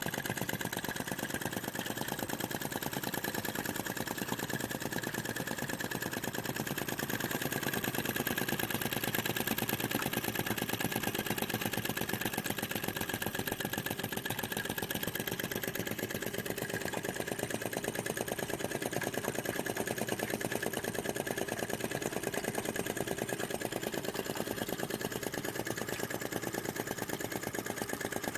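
Model flame gulper (vacuum) engine running steadily with a fast, even ticking beat.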